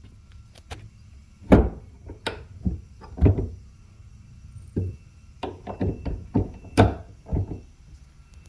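About a dozen irregular knocks and thuds, like work being done on wood, the loudest about one and a half seconds in and near the seven-second mark.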